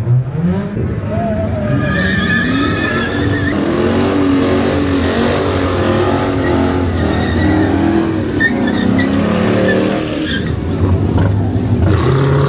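A car engine revving hard, its pitch rising and falling repeatedly, while the tyres squeal in a sustained skid.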